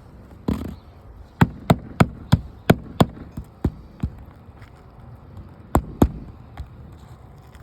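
A quick run of about eight sharp knocks, roughly three a second, then two more close together near the end.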